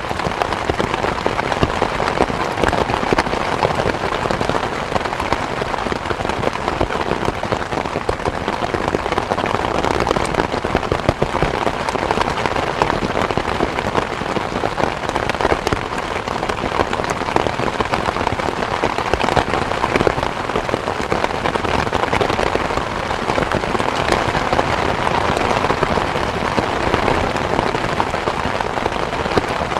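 Steady rain falling: a dense, even patter of many small drops that keeps up without let-up, with no thunder.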